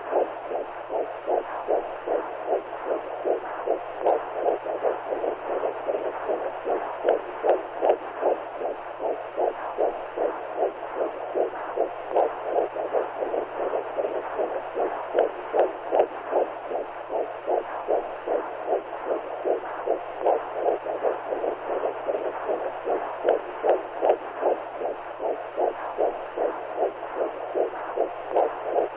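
Womb sound for lulling a newborn: a muffled, regular whooshing pulse, like a heartbeat heard through fluid, repeating rapidly and evenly over a faint steady low hum.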